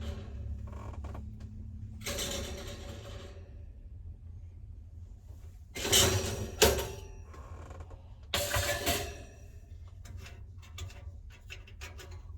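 Handling noises: rustling, two loud knocks about six seconds in and a scatter of light clicks, over a steady low hum.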